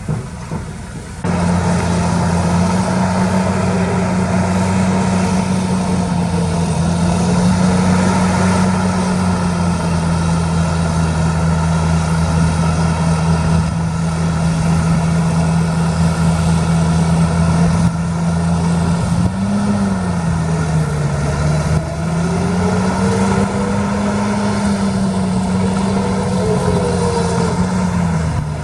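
Heavy diesel engine of an earthmoving machine running steadily, coming in abruptly about a second in, its pitch dipping and rising briefly a few times in the later part.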